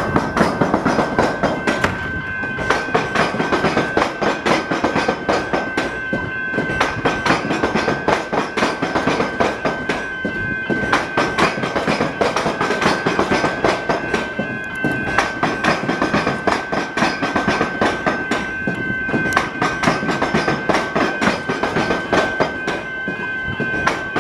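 Electric train passing over the tram-track crossing, its wheels clattering irregularly as they bounce across the gaps where the rails cross. A steady high tone runs throughout.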